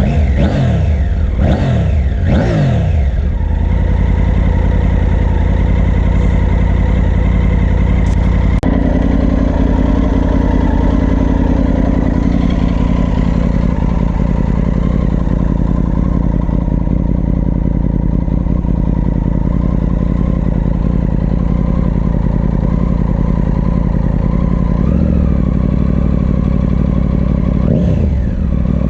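Triumph Tiger 900 Rally Pro's three-cylinder engine blipped quickly about three times, then idling steadily, with another rev near the end.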